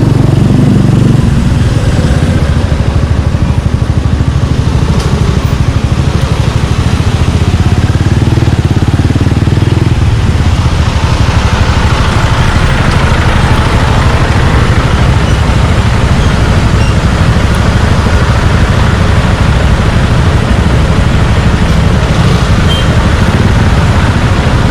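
Suzuki Gixxer 155's single-cylinder four-stroke engine with an aftermarket exhaust, running loud and steady under way. Its note changes about a second in and again about ten seconds in, with more rushing noise in the later part.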